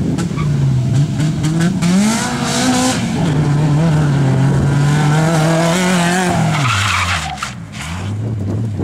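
Rally car engine revving hard, its pitch climbing and falling through the gears, then dropping steeply about seven seconds in and settling into a lower steady note.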